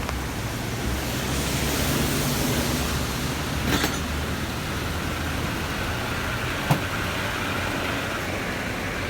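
Heavy rain and road traffic: a steady rushing noise with a low rumble underneath, broken by two short knocks, about four and seven seconds in.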